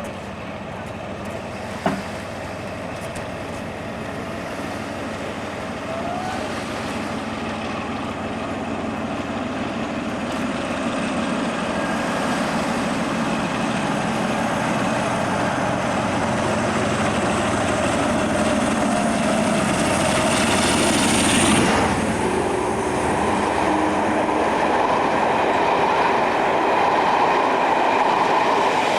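A train approaching and passing, its running noise growing steadily louder, with a high whine climbing to a peak about three-quarters of the way through. A single sharp click about two seconds in.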